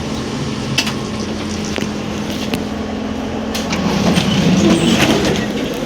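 ZiU-682G trolleybus running, with a steady hum, scattered knocks and rattles, and a louder rumble for about a second and a half past the middle.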